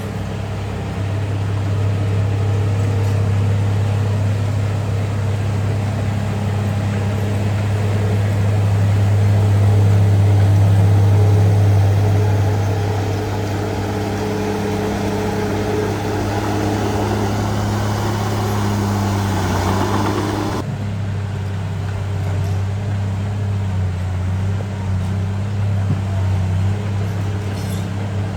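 Heavy diesel engine of earth-moving machinery running steadily with a deep drone, swelling louder for a few seconds early on. A rushing noise builds over it and then cuts off suddenly about twenty seconds in.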